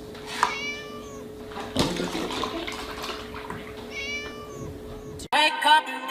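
A kitten mews twice, short high calls about three and a half seconds apart, with a single knock between them. Music with singing cuts in near the end.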